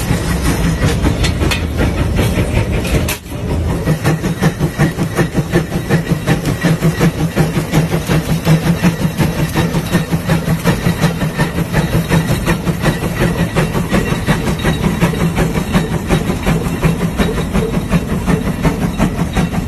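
Case 150 steam traction engine pulling a plow under load, its exhaust chuffing in a steady, rapid beat, with a brief drop about three seconds in.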